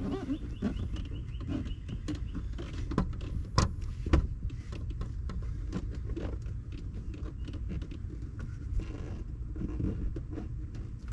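Handling noise from a rubber door gasket being pressed into its channel around a car's door opening: rubbing and scraping, with a few sharp knocks about three to four seconds in.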